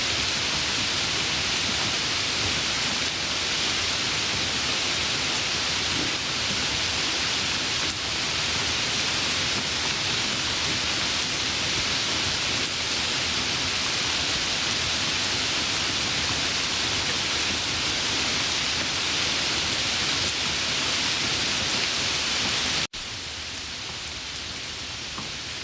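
Steady rain, a dense even hiss of falling drops. Near the end it cuts out for an instant and comes back noticeably quieter, as at an edit in the recording.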